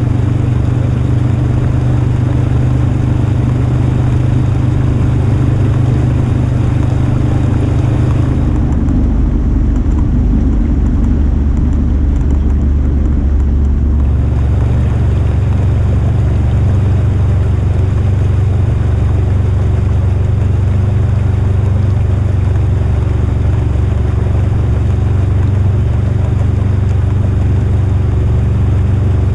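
Polaris RZR side-by-side's engine running steadily under way, with wind on the microphone. For several seconds about a third of the way in, the sound turns duller and heavier in the low end before returning to its earlier pattern.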